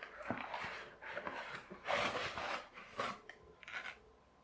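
Toy packaging being handled: several bursts of rubbing and scraping against the cardboard box and its insert, dying away near the end.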